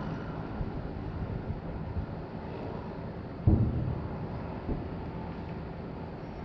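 Distant fireworks going off: a low, muffled boom a little past halfway, then a fainter thud about a second later, over a steady low background rumble.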